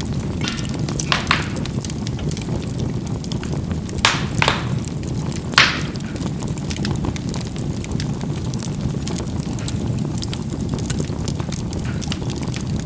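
Charcoal burning in a fireplace: a steady low rush of flame with sharp crackling pops, several in the first six seconds, the loudest about five and a half seconds in, then only faint ticks.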